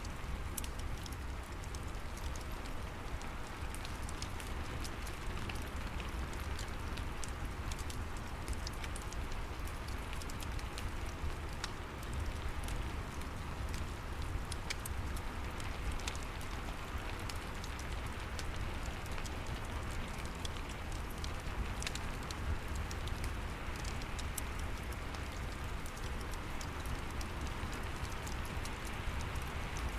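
Steady rain falling, a constant hiss of drops, mixed with the irregular pops and crackles of a wood fire burning in a fireplace.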